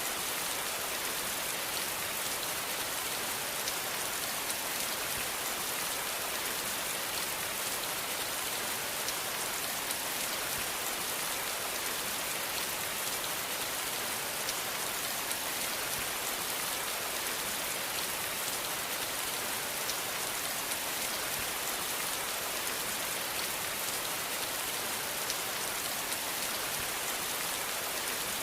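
Steady rain falling, an even hiss with many fine drop ticks on a surface.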